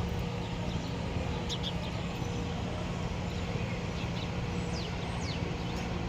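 Steady rumble of city traffic with a few short, high bird chirps about a second and a half in and again near the end.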